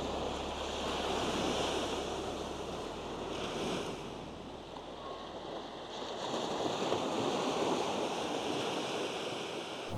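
Ocean surf: waves breaking and washing ashore, the rush swelling twice and easing in between.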